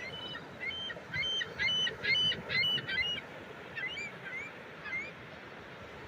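A bird calling in a quick run of short, rising notes, about two a second, louder in the middle, then slowing to a few fainter calls about four seconds in, over a steady hiss of wind and surf.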